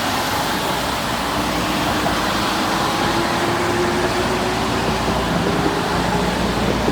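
Electric commuter train pulling away from a station: a steady rush of running noise with the traction motors' whine rising slowly in pitch as it gathers speed.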